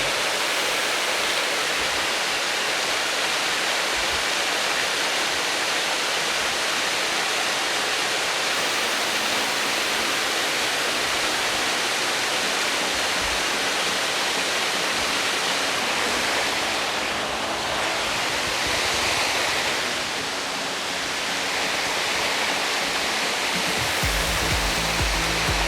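Waterfall rushing in a steady, dense roar of falling water, running full after rain. A low rumble comes in near the end.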